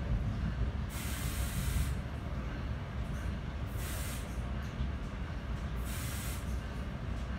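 Steady low rumble of a Bombardier Multilevel passenger car riding the rails, with three short bursts of air hissing: one lasting about a second, about a second in, and two briefer ones about four and six seconds in.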